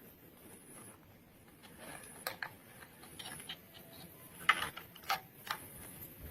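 Light plastic clicks and taps from toy police car parts being handled and fitted together: about half a dozen separate clicks, the loudest a little past halfway.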